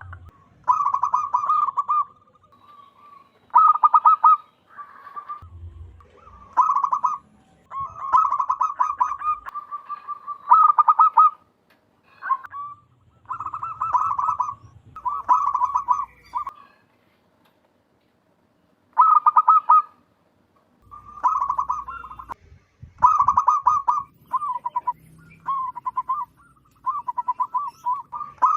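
Zebra dove cooing: loud, rapidly pulsed coo phrases at much the same pitch, about a second each, repeated with short pauses and one longer pause a little past halfway.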